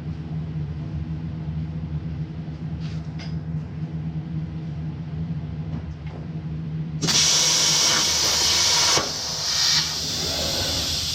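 A steady low hum, then about seven seconds in a loud hissing rush starts suddenly and runs on: a Hypertherm plasma torch firing and cutting sheet steel on a CNC plasma table. The hiss dips briefly about nine seconds in.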